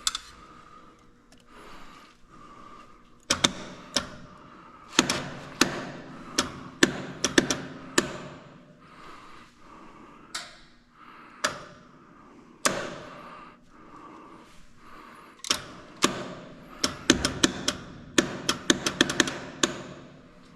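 Irregular sharp knocks and metallic clanks of tools and metal parts being handled and struck while working on an air compressor. They come singly at first and crowd into quick runs of taps near the end.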